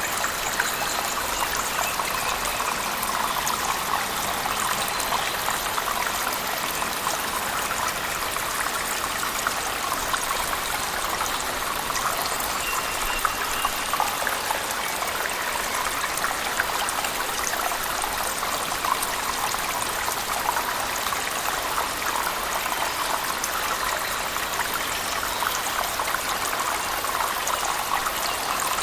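Steady rush of a waterfall inside a cave mixed with heavy rain, a constant even wash of water with a fine patter of drops throughout.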